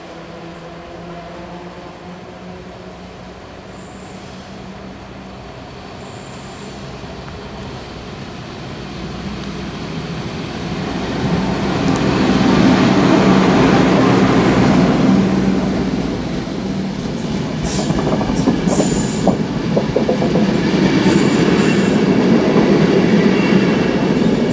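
FS E.656 'Caimano' electric locomotive hauling a passenger train past: a rumble that grows from about eight seconds in and is loudest as the locomotive passes, then the coaches rolling by with sharp wheel clicks and brief squeals from the wheels on the curving track.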